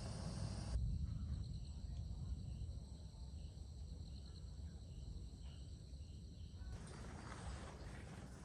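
Forest insects, likely crickets, trilling in steady high-pitched tones over a low rumble, with faint short chirps between. The insect sound changes abruptly about a second in and again near the end.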